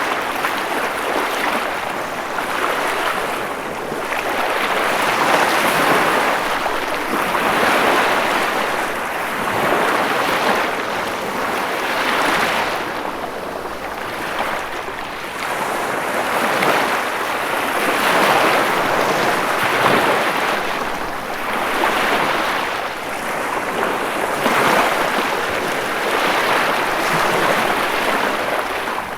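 Ocean waves breaking and washing on a shore, a steady rush of surf that swells and falls back every two to three seconds.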